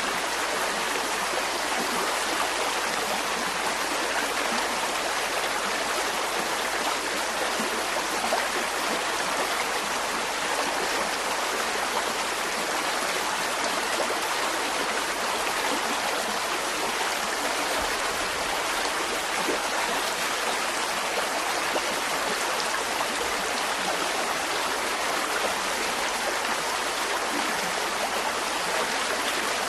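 Mountain stream running steadily over rocks: an even, continuous rush of flowing water.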